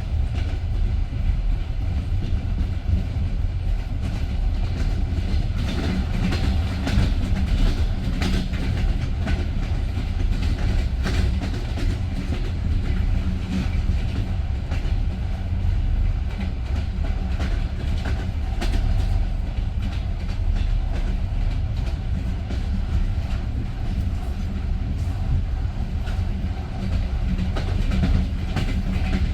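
Passenger train carriage running on the rails: a steady low rumble with scattered sharp clicks of the wheels over rail joints, bunched more closely in the first half.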